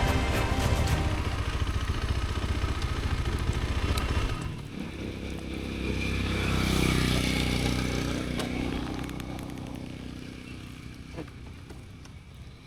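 Background music that cuts off about four seconds in, followed by a vehicle engine passing by, growing louder and then fading away.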